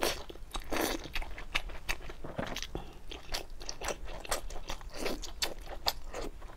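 Close-miked mouth sounds of biting and chewing a piece of glazed braised meat: an irregular, quick stream of short smacks and clicks.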